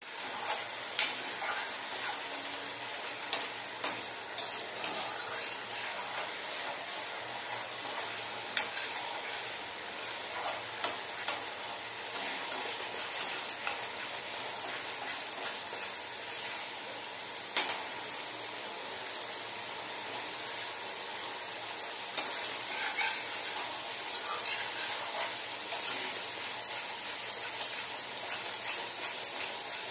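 Spiced masala paste sizzling in oil in a steel kadai, stirred and scraped with a metal spatula. The steady frying hiss is broken by frequent clicks and scrapes of metal on the pan and a few louder knocks.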